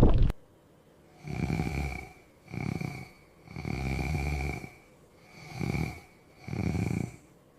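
Slow, rhythmic snoring: five drawn-out snoring breaths, each half a second to a second long, separated by short silences. A loud rushing sound cuts off suddenly just before them.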